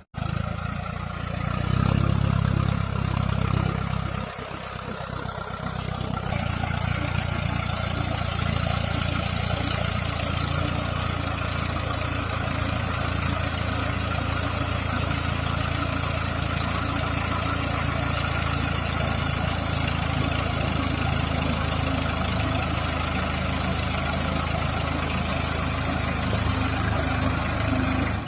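Mahindra tractor diesel engine running, dipping briefly about four seconds in, then running steadily with a hiss over it.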